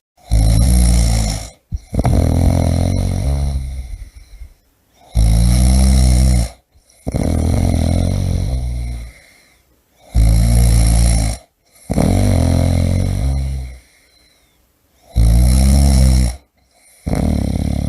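A person snoring rhythmically, about every five seconds, four breaths in all. Each breath is a short, loud rasping snore followed by a longer one that fades away.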